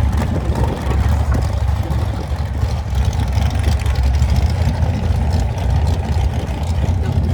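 Vehicle engine running steadily with a deep, low rumble.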